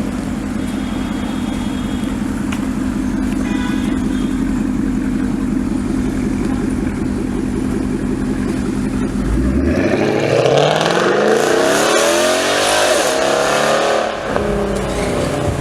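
Ford Mustang GT V8 through a Borla aftermarket exhaust, running at a steady idle, then revved hard a little over halfway in: the pitch climbs and swings up and down for a few seconds before falling back.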